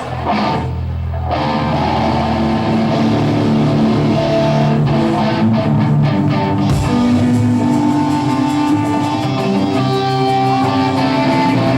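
Amplified electric guitar and bass played live, a low held note at first and then ringing chords and notes.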